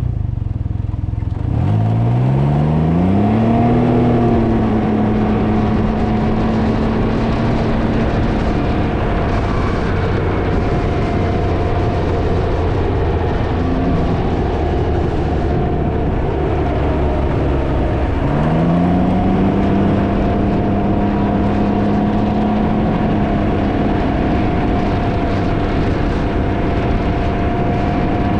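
Can-Am Ryker three-wheeler's engine pulling under acceleration, its pitch rising about two seconds in and again about two-thirds of the way through, then holding steady at cruise. Heavy wind noise on the microphone runs under it.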